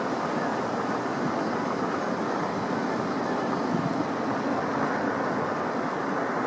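Boeing 787 jet engines: a steady, even roar.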